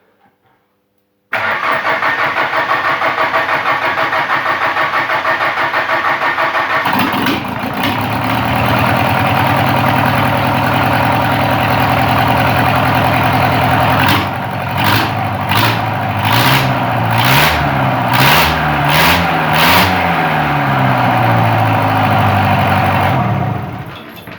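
Mitsubishi 4D55 four-cylinder diesel engine being cranked by its starter for about six seconds. It catches and settles into a steady run, is revved up and back down several times in quick succession, and is shut off near the end.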